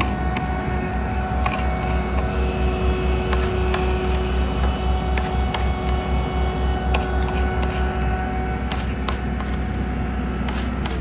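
Heavy diesel paving machinery running steadily: a deep, pulsing low rumble with a steady whine on top and scattered clicks and knocks.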